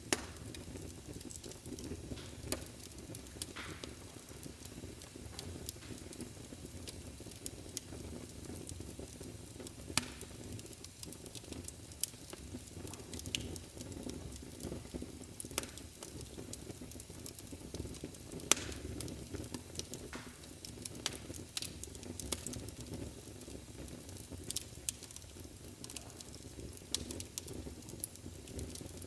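Wood fire burning in a fireplace: a steady low rustle of flames with irregular sharp crackles and pops, a few of them louder, about ten seconds in and again past halfway.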